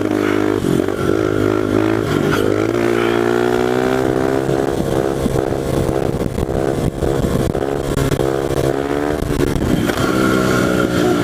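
Honda XR100 pit bike's small four-stroke single with an FMF exhaust, running hard at high revs in a high gear. The engine note climbs slowly in the first few seconds and holds steady, then falters briefly near the end before picking up again.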